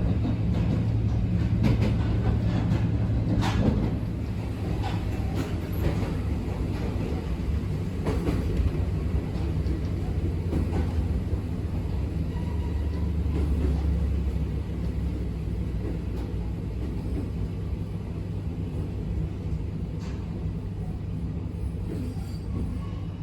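Abukuma Express 8100 series electric train heard from on board while running: a steady low hum over rail rumble, with a few sharp clicks in the first few seconds, slowly growing quieter.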